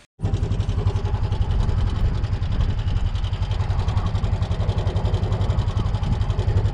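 An engine running steadily close by, with a rapid, even pulse; it starts abruptly right at the start.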